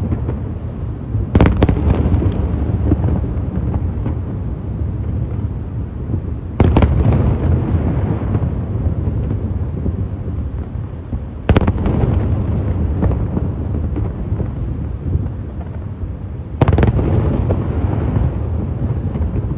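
Aerial fireworks display: four big shell bursts, about five seconds apart, each a sharp boom followed by a long rumbling echo, over a continuous deep rumble of other shells going off.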